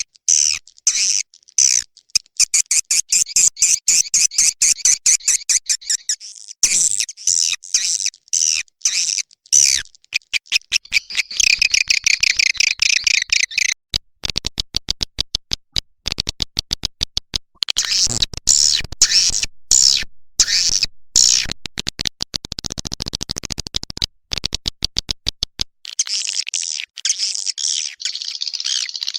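Edible-nest swiftlet lure-call recording: high-pitched twittering chirps and rapid rattling clicks, in dense stuttering runs broken by brief gaps. This is the kind of call sound played from swiftlet houses to draw swiftlets in to roost and nest.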